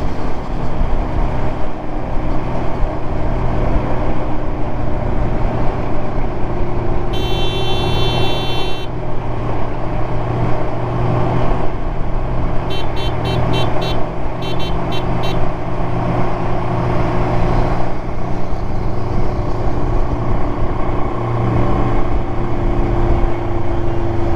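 Kawasaki Z900's inline-four engine with a titanium Arrow exhaust running at a steady cruise, with wind rushing over the microphone. A vehicle horn sounds for about two seconds some seven seconds in. A run of short, rapid horn beeps follows about thirteen to fifteen seconds in.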